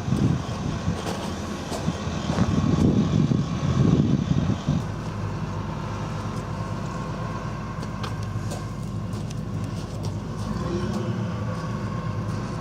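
Heavy diesel engine of a Type 94 amphibious minelaying vehicle running steadily while it is afloat, a low drone. Louder rushing noise, like wind or water, rises and falls over the first few seconds.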